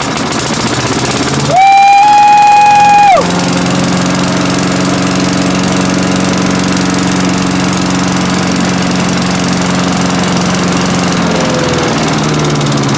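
Troy-Bilt 6.5 HP chipper shredder's single-cylinder Briggs & Stratton engine running on a newly fitted aftermarket carburetor, the replacement having cured its failure to run. It revs up sharply for about a second and a half near the start, then settles back to a steady run that sags slightly near the end.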